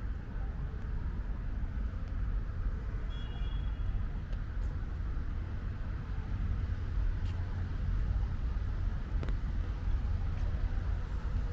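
Steady low rumble of distant road traffic with light rain falling, a few faint ticks, and a brief high chirp about three seconds in.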